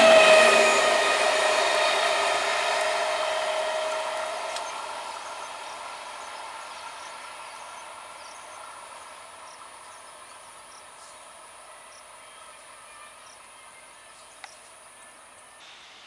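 Green EMU electric local train running past and receding: rail and wheel noise with a steady whine, fading away over the first several seconds. A faint, steady, high-pitched insect drone is left, and it stops suddenly near the end.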